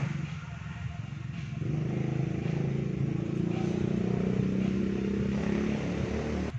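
Motor tricycle's small engine running. It eases off at first, picks up again about two seconds in and then holds a steady pitch, and stops abruptly near the end.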